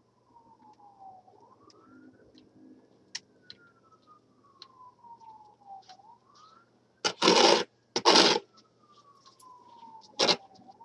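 Distant emergency-vehicle siren in a slow wail, its pitch rising and then gliding down again about every four and a half seconds. Two loud brief rushing noises break in about seven and eight seconds in, and a shorter one near the end.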